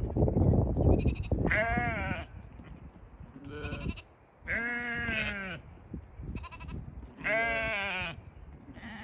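Blackbelly sheep bleating, about five wavering calls of varied length, the longest about a second. Wind rumbles on the microphone for the first second or so.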